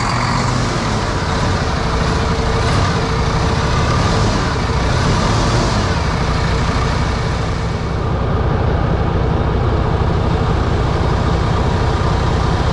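Diesel truck engine running steadily just after starting, its fuel system freshly primed.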